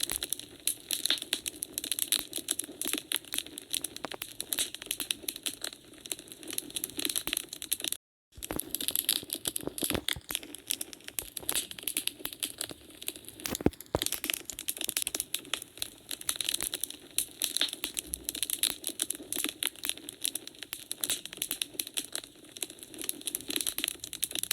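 Wood fire crackling in a fireplace: a dense run of quick pops and snaps, with one louder snap about fourteen seconds in. The sound cuts out completely for a split second about eight seconds in.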